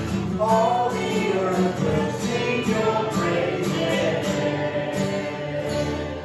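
Worship band and singers performing a contemporary praise song, with a steady drum beat under the voices; the music cuts off suddenly at the end.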